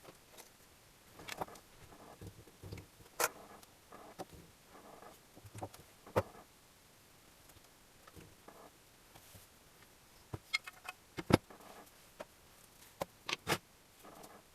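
Irregular clicks and knocks of tools and metal engine parts being handled during engine assembly, with a quick cluster of sharp clicks late on and the loudest knock about eleven seconds in.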